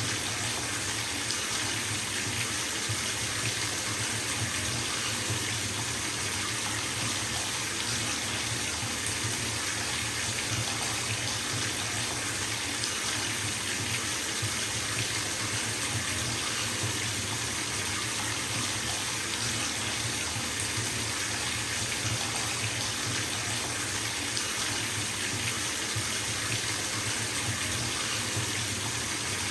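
Bathtub filling from its tap: a steady, unbroken rush of running water splashing into the tub.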